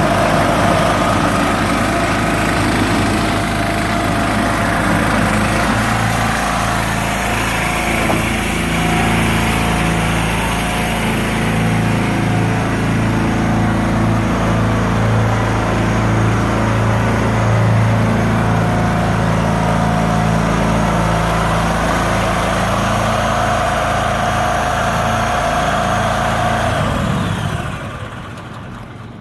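Seed tender's small engine running steadily for the unloading auger, then dying away near the end.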